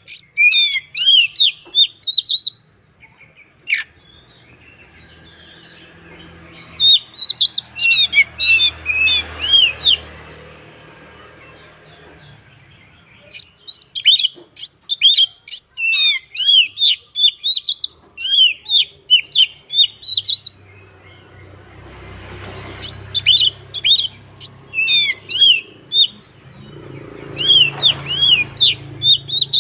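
Oriental magpie-robin (kacer) singing loudly in phrases of rapid, varied whistled and chirping notes. The phrases last a few seconds each, with short pauses between them.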